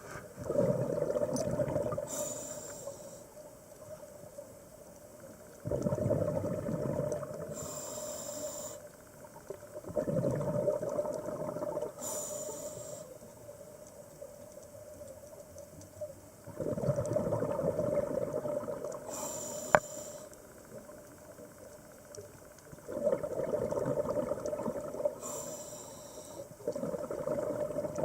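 Scuba diver breathing through a regulator underwater: about every five to six seconds, a two-second rush of exhaled bubbles, each followed by a shorter high hiss of the next inhalation.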